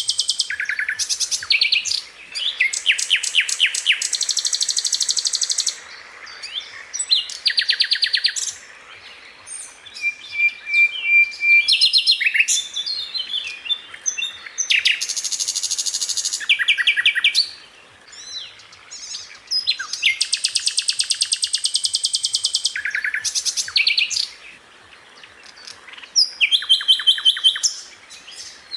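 Sikatan londo flycatcher singing: long, fast trilled rolls of rapidly repeated high notes, broken by short, sharp single calls and brief pauses.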